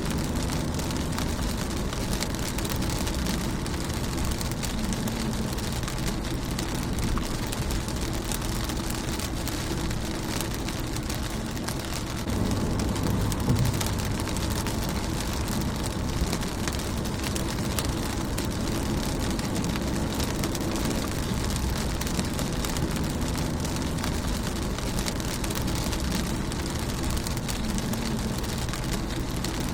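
Steady rain falling on a car's windshield, thick with fine drop ticks, over a steady low rumble that swells a little about twelve seconds in.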